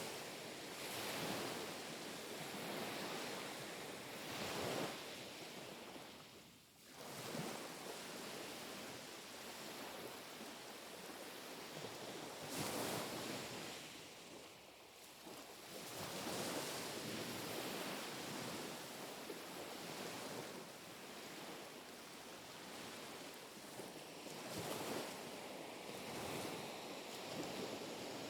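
Small sea waves lapping and washing on the shore, in gentle repeated swells every few seconds, with light wind on the microphone.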